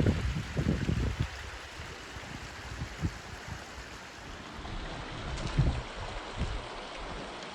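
Wind buffeting the microphone over a steady hiss, with irregular low rumbles that are strongest in the first second and again about five to six seconds in.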